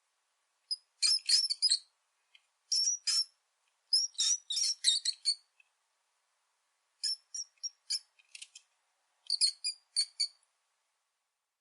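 Rat squeaking: quick, very high-pitched squeaks in about half a dozen bursts, with short silent pauses between them.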